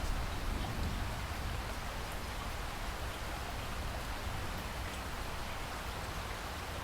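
Steady rainfall in a rainforest, an even hiss of rain with a low rumble beneath it and faint scattered drop ticks.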